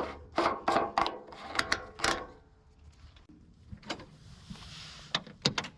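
A run of sharp clicks and knocks, a brief soft hiss about halfway through, then two more sharp clicks near the end: a machine's fuel cap being put back on and the machine being handled after refuelling.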